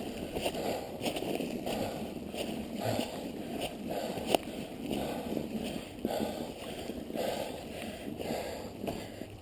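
Mountain bike riding through snow: tyres churning through snow and slush with a rhythmic swishing that comes in waves under a second apart, and one sharp click about four seconds in.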